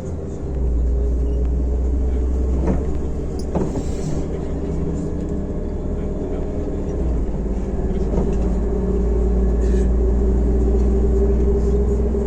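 MAZ-105 articulated city bus running on the road, its engine and drivetrain giving a steady low hum that steps up about half a second in and grows a little louder again from about eight seconds, with a few short rattles around three to four seconds.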